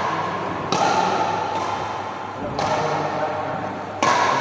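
Badminton rally: rackets striking a shuttlecock, three sharp hits roughly one and a half to two seconds apart.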